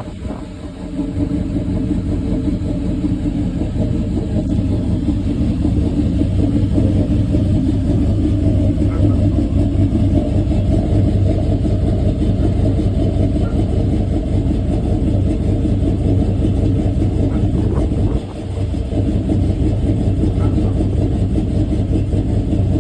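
Cammed LSX V8 in a GMC truck running steadily, likely at idle, with a brief drop in level just after the start and again about 18 seconds in.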